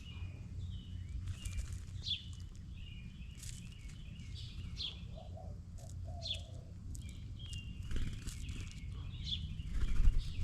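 A songbird repeating a short downslurred note, about one every second and a half, with other bird chirps, over a steady low rumble. A loud knock comes at the very end.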